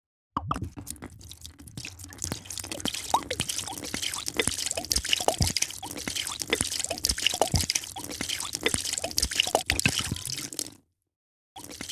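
A drink being poured into a glass, with dense bubbling and dripping. It stops suddenly near the end.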